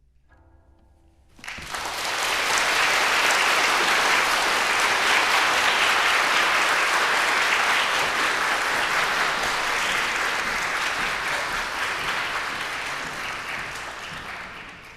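Audience applauding, bursting in about a second and a half in, just after a faint last guqin note dies away, and tapering off near the end.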